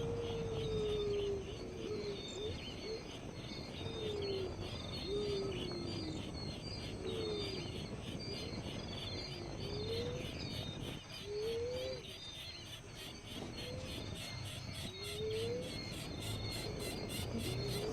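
A bird calling again and again with short, low, sliding notes, one every second or two, over steady, fast insect chirping.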